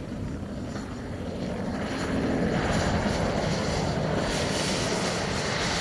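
Turbine engine of a jet-powered radio-control model plane in flight: a steady rushing whine that grows louder as the plane comes closer.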